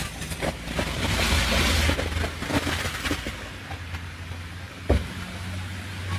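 A car's engine running with a steady low hum, with a rush of hiss early on, scattered knocks and one sharp thump about five seconds in.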